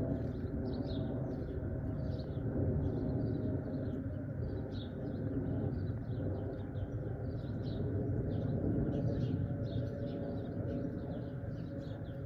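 Birds chirping in quick, continual short notes over a steady low rumble.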